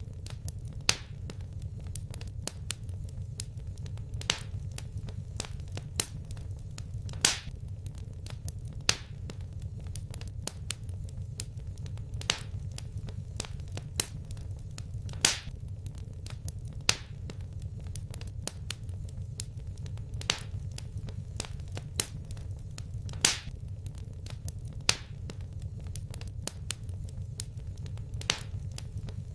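Wood fire crackling: sharp pops about once a second over a steady low rumble.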